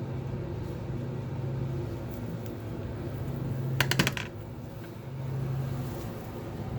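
A quick rattle of about five sharp metallic clicks, ringing briefly, just before four seconds in, like small metal parts clinking together while the old fan is taken apart. Under it runs a steady low hum.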